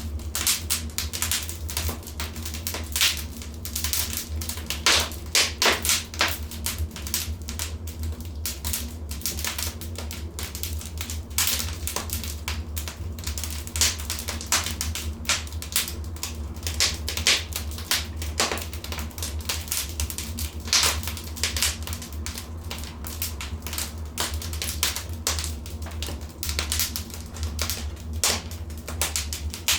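Wood fire in a fireplace crackling: dense, irregular sharp pops and snaps, some louder than others, over a steady low rumble.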